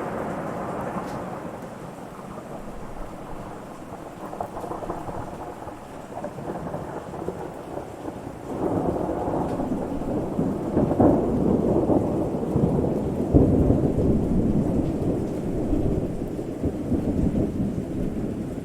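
Thunder rumbling with rain falling steadily: the rumble fades for a few seconds, then swells again at about eight seconds into a longer, louder roll that peaks twice.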